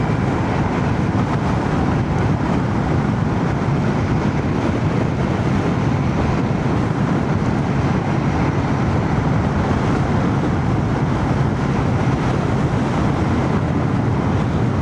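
Royal Enfield Shotgun 650's parallel-twin engine running steadily under way, mixed with wind and road noise, heard from a microphone inside a full-face helmet.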